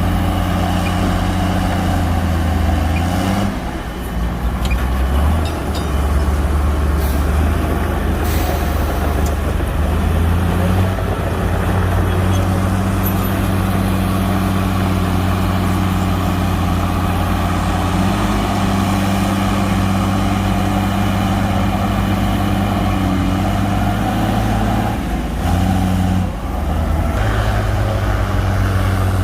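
Bulldozer's heavy diesel engine running steadily, its note shifting with a brief dip in loudness about four seconds in and again near the end.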